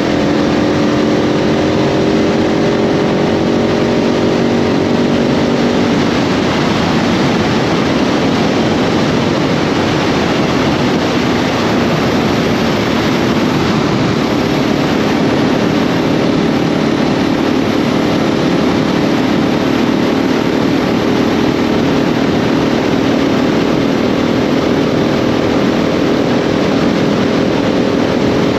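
KTM 690 SMC R single-cylinder engine running under way, its pitch easing down over the first few seconds and rising again near the end, under a steady rush of wind and road noise.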